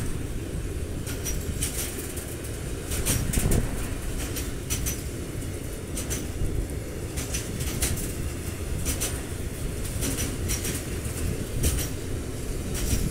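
Intermodal freight train's pocket wagons loaded with semi-trailers rolling past: a steady low rumble with clusters of sharp wheel clicks recurring about every second and a half.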